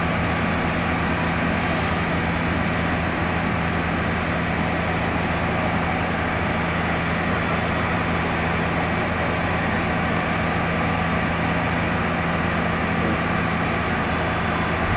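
Steady rushing hiss of LP gas escaping under pressure from a tanker truck's ruptured hose, with a steady low hum beneath it.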